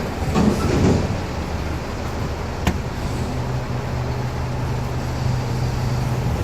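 Garbage truck engine running with a steady low rumble, settling into an even hum from about halfway through. A single sharp click about two and a half seconds in.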